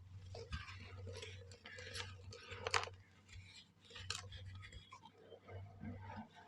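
Dry sand, mud and charcoal shapes crumbling and crunching in a bowl, as a run of small gritty crackles with a few sharper cracks, about three seconds in and again about a second later.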